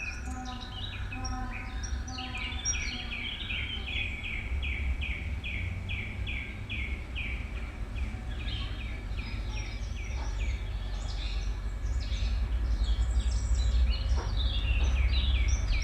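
Countryside field recording played back through hi-fi speakers: a bird repeating a short call about two to three times a second, then a busier mix of bird chirps, over a steady low rumble that grows louder near the end.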